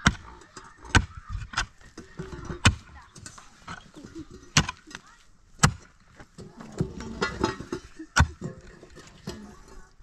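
A series of sharp knocks or blows, about eight of them at uneven intervals of one to two seconds.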